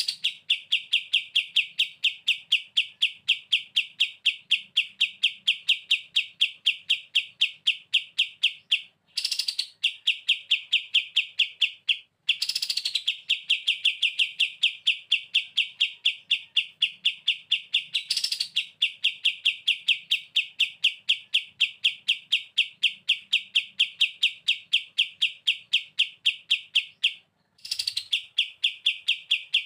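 Kapas tembak, a bulbul, singing a long run of rapid, evenly repeated high chirps — the continuous 'ngebren' style. The run breaks off briefly three times, about 9, 12 and 27 seconds in.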